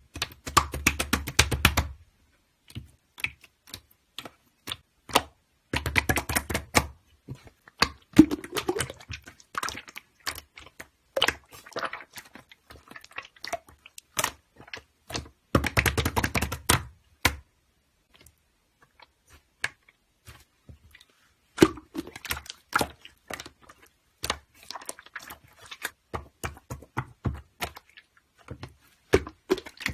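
Rapid clicking and tapping in dense runs, near the start, about six seconds in and about sixteen seconds in, with scattered single clicks and taps in between.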